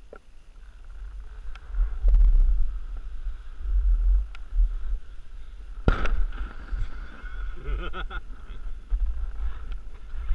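Wind buffeting the microphone while skiing, a gusting low rumble, with one sharp crack about six seconds in.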